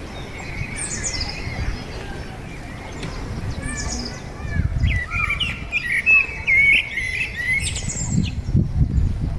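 Small birds chirping and singing, with quick rising and falling chirps that grow busier from about halfway through. An uneven low rumble runs underneath.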